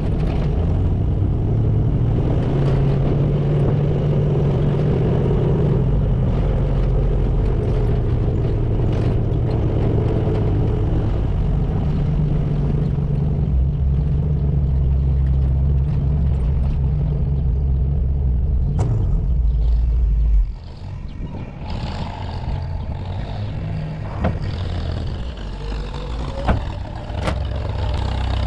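Chevy K20 pickup's 350 small-block V8 and exhaust drone steadily while towing a trailer. About two-thirds in, the engine sound cuts off suddenly, leaving a quieter rumble with a few sharp knocks and clanks.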